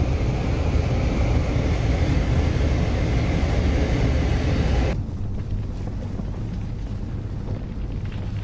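A mudflow rushing down a stream channel with a loud, continuous rumble and roar. About halfway through the sound changes abruptly to a duller, deeper rumble.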